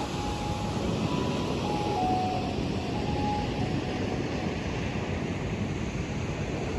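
Steady low rumbling noise of a vehicle in motion, with a few faint short tones stepping downward in the first three seconds.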